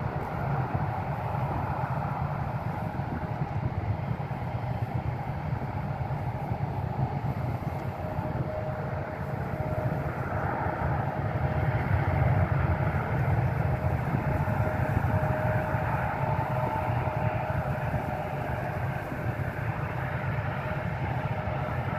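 Aircraft engines running, a steady rumble with a thin, steady whine over it that grows clearer about eight seconds in.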